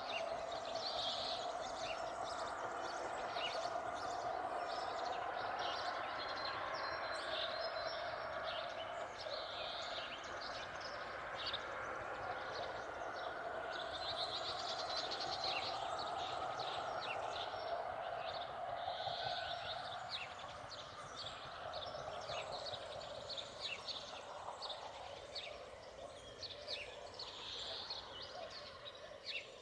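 Birds chirping and calling, many short high notes overlapping, over a steady lower outdoor murmur that fades somewhat in the last third.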